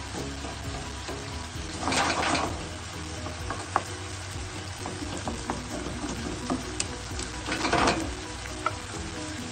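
A beef and cabbage stir-fry sizzling in a frying pan as a wooden spatula stirs it. The sizzle swells louder twice, about two seconds in and near the end, as the food is turned over.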